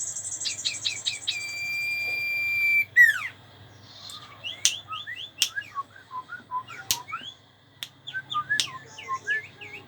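Common iora (cipau) singing: a quick run of whistled notes, then a long held whistle that ends in a falling sweep, followed by a string of short chirps and sharp clicks.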